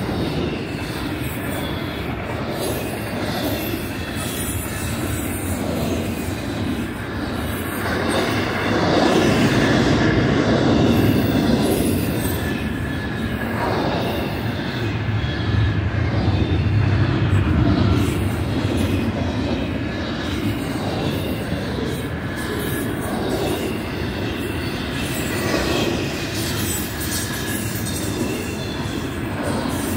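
Double-stack intermodal well cars rolling past: a steady rumble of steel wheels on rail, with a thin high wheel squeal running over it and an occasional clack.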